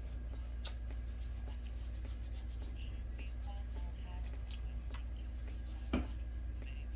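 Fingers working a rinse through wet hair, with small crackling and squishing clicks throughout and one louder knock about six seconds in, over a steady low hum.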